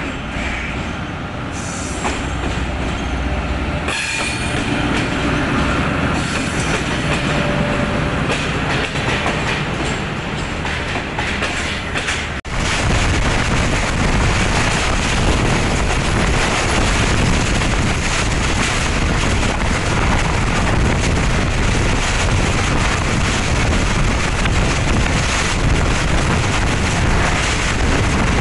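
Diesel-electric locomotive running through a station without stopping, its engine running as the passenger coaches roll past. About twelve seconds in it cuts to a ride aboard a moving train: a louder, steady noise of wheels on the rails.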